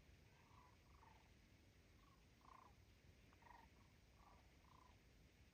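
Faint, short squeaky calls, about nine of them at irregular intervals of roughly half a second, over a hushed woodland background; the hiker takes them for baby chipmunks or squirrels.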